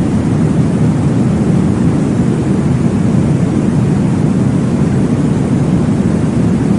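Steady, deep whooshing noise with no breaks and no clear beat: a sleep noise track meant to imitate the whoosh of blood flow heard in the womb.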